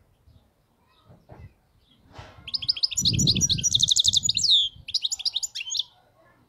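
European goldfinch singing in the fault-free 'khalawi' style that fanciers prize. It is a rapid run of high twittering notes starting about two and a half seconds in, then a short pause and a second, shorter burst.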